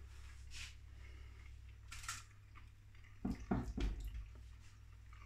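A man chewing a mouthful of chicken, with faint wet mouth sounds. A short cluster of soft knocks or handling noises comes a little past three seconds in.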